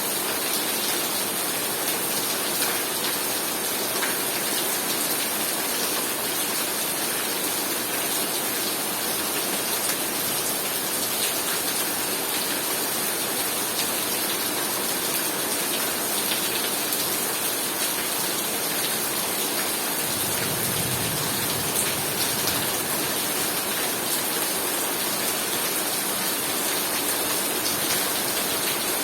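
Heavy rain falling steadily, a dense even hiss of drops hitting surfaces, with a brief low rumble about two-thirds of the way through.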